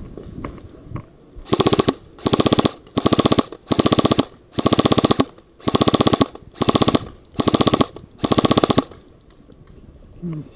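Airsoft electric gun firing on full auto in about nine short, rapid bursts, close and loud.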